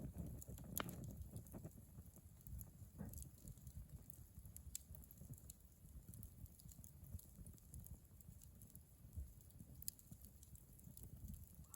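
Wood bonfire crackling faintly: scattered small pops and snaps over a low rumble, the sharpest pop about a second in.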